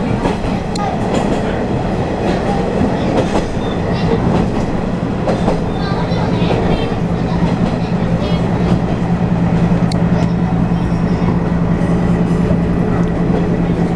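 Watarase Keikoku Railway diesel railcar running along the line, heard from inside the passenger car: steady rumble of wheels on the rails with scattered clicks over rail joints, and an engine hum that grows steadier and stronger about a third of the way in.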